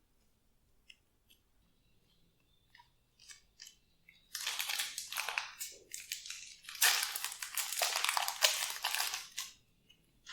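Glossy slime being squished and kneaded by hand, with makeup and clay worked into it: a few faint clicks and pops, then about five seconds of loud, crackly squishing starting about four seconds in.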